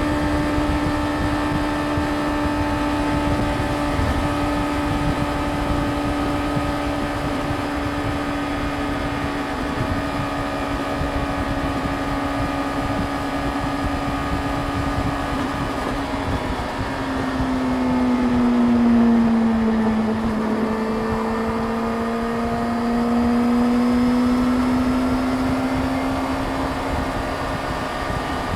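Yamaha YZF-R6's inline-four engine running at a steady cruise. About two-thirds of the way through, its note drops lower, then rises back to the cruising pitch.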